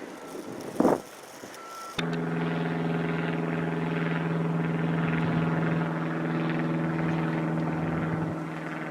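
A motor running steadily at one constant pitch, starting abruptly about two seconds in, after a single knock about a second in.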